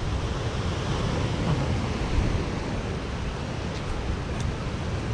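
Wind blowing outdoors: a steady rushing noise with low, uneven rumbling buffets on the microphone.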